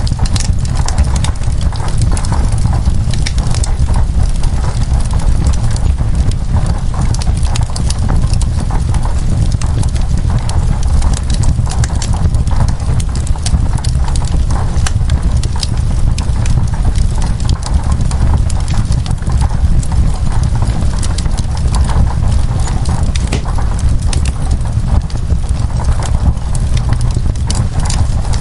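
Wood fire crackling in a fireplace, a steady stream of sharp, irregular pops and snaps over a constant low rumble.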